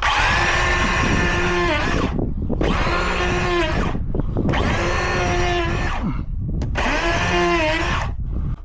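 Cordless electric hand plane running and shaving a timber post flush, about four passes. Its pitch sags under load on each pass and the motor picks back up in the short breaks between.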